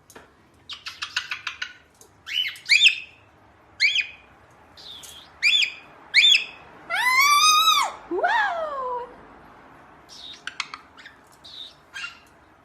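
A pet bird chirping and calling: quick chirps and clicks, then a long arching call about seven seconds in, followed at once by a falling call, and more short chirps near the end.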